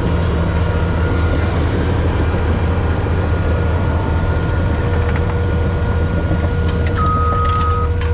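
A heavy vehicle's engine running steadily. Near the end a reversing beeper starts sounding in long, evenly spaced beeps.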